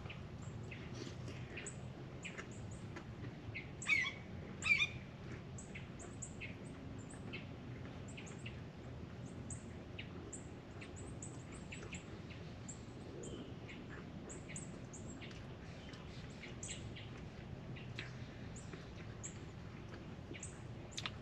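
Birds chirping, a steady stream of short, high chirps. Two louder, sharp sounds come about four seconds in.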